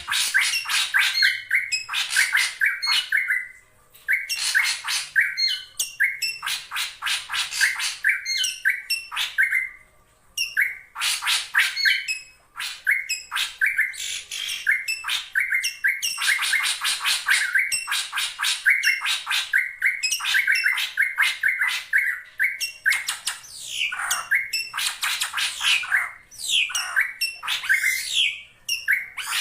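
Drongo calling in rapid runs of harsh, chattering notes, mixed with whistled glides, and pausing briefly twice. It is the drongo's call for challenging a rival, played as a lure.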